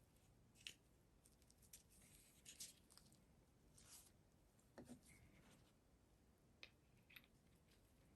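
Faint, scattered small clicks and light scrapes of starter parts being handled while grease is worked into them, about half a dozen at irregular times.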